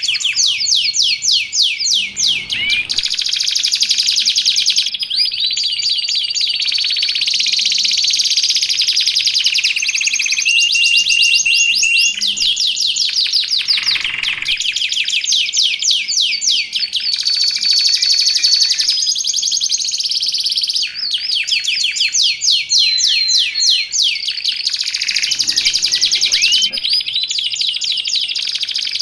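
Canary singing nonstop in long, fast trills of rapidly repeated notes, broken now and then by a held whistled note.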